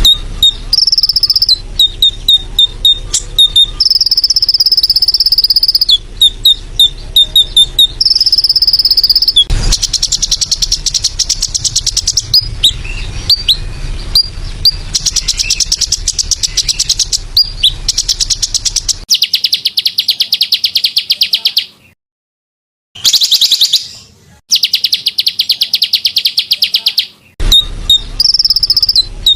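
Songbird masteran recording: loud, repeated short sharp chirps and brief held high whistles, alternating with long, fast, buzzing insect-like trills. The sound cuts out completely for about a second roughly three-quarters of the way through, then the same mix returns.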